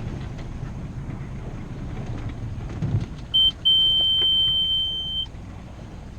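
A sailboat's auxiliary engine running with a low hum is shut off about three seconds in. As it dies, the engine panel's alarm gives a high steady beep, one short and then one long of about a second and a half, as the engine stops with the key still on.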